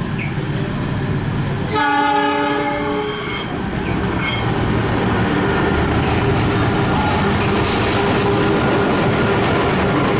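CC 203 diesel-electric locomotive sounding its horn, a chord held for about a second and a half starting about two seconds in. Then the steady noise of the locomotive and its container wagons running on the rails.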